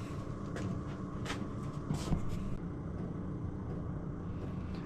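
A steady low hum with a few faint, light clicks in the first two seconds.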